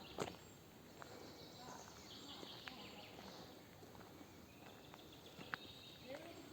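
Faint outdoor ambience in a forest park with scattered, faint bird chirps, broken by a sharp click just after the start and another about five and a half seconds in.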